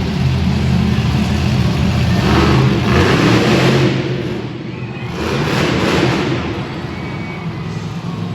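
Monster truck engine running loud and low, revving up hard twice, about two seconds in and again about five seconds in.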